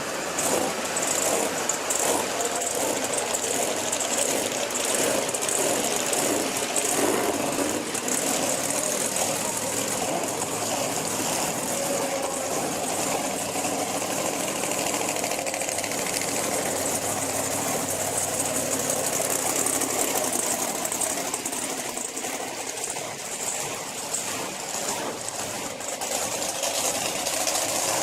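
Monster truck engine running steadily, heard over a constant wash of arena noise.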